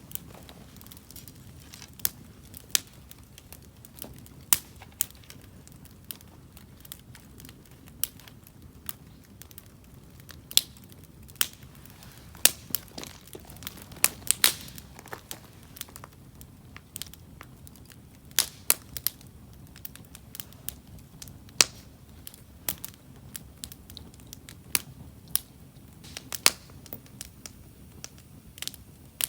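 Wood campfire crackling: burning firewood giving irregular sharp pops and snaps, one to a few a second, over a steady low noise.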